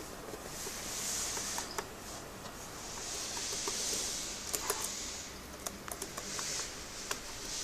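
A parrot at play: spells of scratchy, hissing rustle, the longest about two seconds, with sharp clicks and taps in between.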